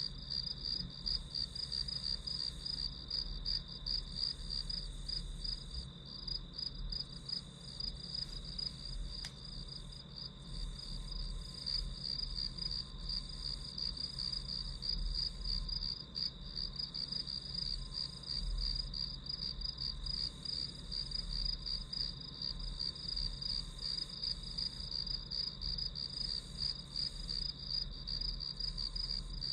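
Crickets chirping without a break, a fast, even pulsing trill. There is a low rumble underneath.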